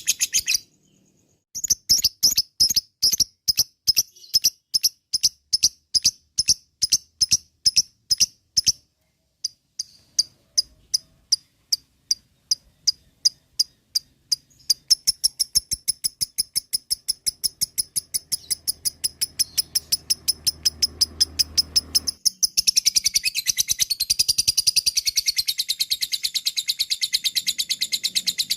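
Lovebird giving its long 'ngekek' chatter: strings of sharp, high chirps repeated about three a second, pausing briefly, then running faster until, about 22 seconds in, they merge into a dense rapid chatter.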